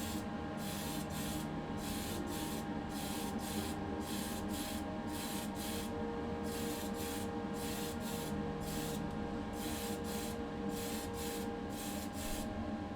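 Spray paint hissing on and off in short bursts, about two a second, over a steady mechanical hum, as the colour coat is sprayed onto a diecast car body.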